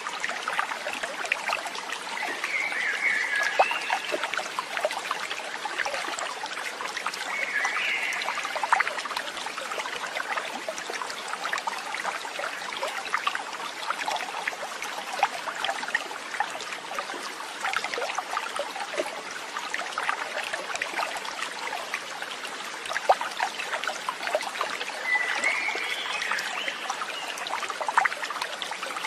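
Running water trickling and splashing steadily, like a small stream, with a few short high chirps a few seconds in, around eight seconds in and near the end.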